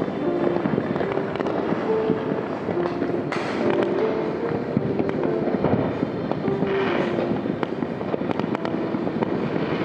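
Dense, continuous crackling and popping of many fireworks and firecrackers going off at once across the city during New Year celebrations, with a couple of rising hisses along the way.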